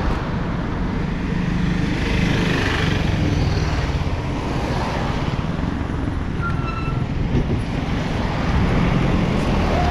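Road traffic: vehicle engines running close by, with a steady wash of road noise.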